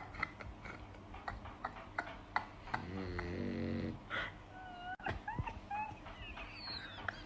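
Sleeping dogs snoring: one long droning snore about three seconds in, then short high squeaky glides.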